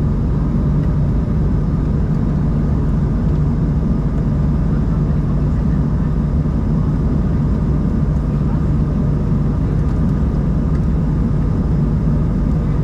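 Steady cabin drone of an Embraer 190-E2 airliner: the even rush of airflow and the hum of its Pratt & Whitney PW1900G geared turbofan engines, with a constant low hum under the noise.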